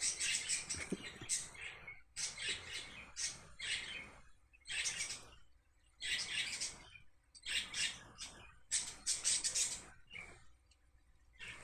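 House sparrows chirping in short, busy bursts that come again and again about once a second, with brief pauses between.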